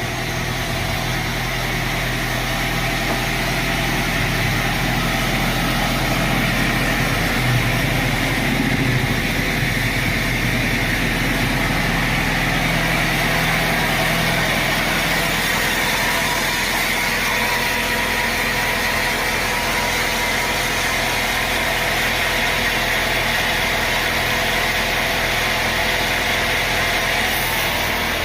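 Sawmill machinery running steadily, a continuous engine-like hum with no break.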